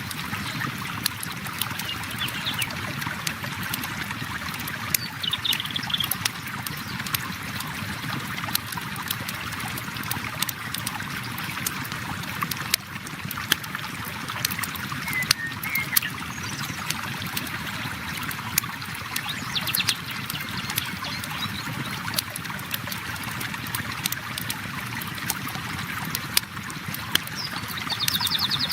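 River water flowing steadily, with a wood campfire crackling in frequent sharp snaps over it. A few brief high chirps come through now and then.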